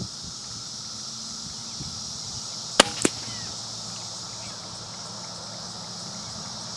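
A suppressed Ruger Precision Rimfire .22 LR firing one 38-grain subsonic round through a Silencer Central Banish 30: a sharp crack about three seconds in, followed a quarter second later by a second, slightly quieter smack, the bullet striking, which sounded like a good hit.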